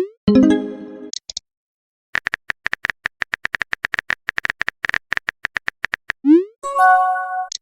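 Phone texting sound effects. A short electronic tone comes first, then a run of quick keyboard-tap clicks, about seven a second, for some four seconds. A rising swoosh follows, and then a short chime of several steady notes.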